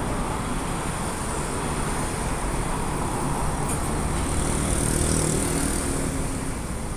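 Steady road-traffic rumble and hiss, swelling as a vehicle's engine passes about two thirds of the way through.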